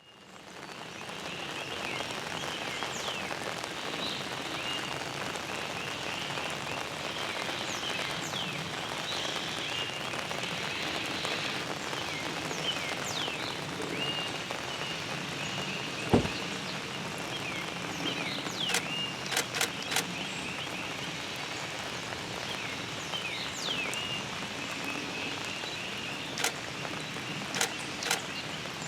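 Steady rain falling, fading in over the first couple of seconds, with a few sharp ticks like drops striking something hard, the loudest about halfway through. Short high chirps recur throughout.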